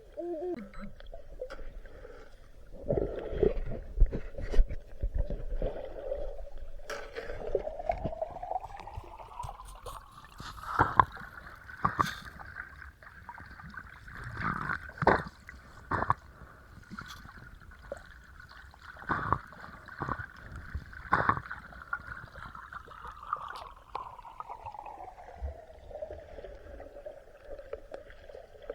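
Underwater recording: a steady tone that rises in pitch, holds for a while and falls back, with scattered knocks and bubbling water.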